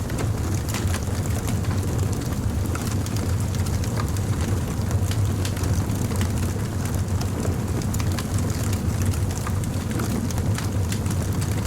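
Wood fire crackling, with frequent small sharp pops and snaps scattered over a steady low rumble.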